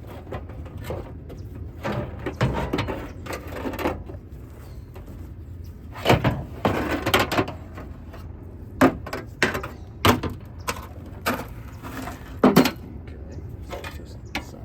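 Hand tools and loose metal parts clanking, scraping and rattling while the old exhaust is being taken off a 1971 VW bus, with several sharp knocks in the second half, over a steady low hum.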